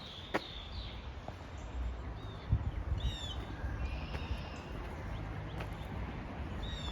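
Small birds chirping: several short, high whistled notes scattered over a few seconds, over a steady low rumble.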